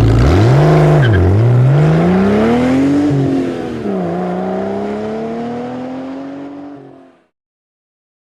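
Car engine accelerating away. After a short rev near the start, its pitch climbs steadily, drops sharply twice at gear changes and climbs again, then fades out about seven seconds in as the car drives off.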